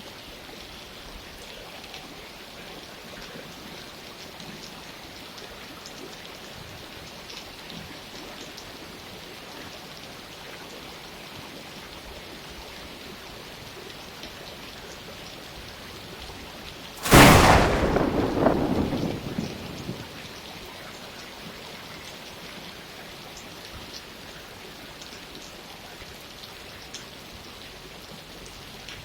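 Steady rain falling, with one sudden loud thunderclap a little past halfway through that rumbles away over about three seconds.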